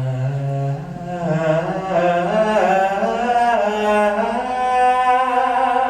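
Music: wordless singing in long held notes, several vocal lines layered like a chant, the lowest line stepping up in pitch about a second in.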